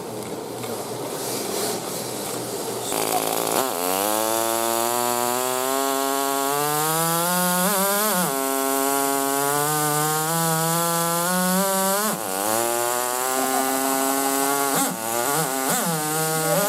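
Simulated engine sound of a tiny Cox TD .051 model glow engine, a high buzz revving up and down. It starts as a rough rasp, settles into a rising buzz about three seconds in, and gives quick sharp rev blips around eight and twelve seconds and twice near the end.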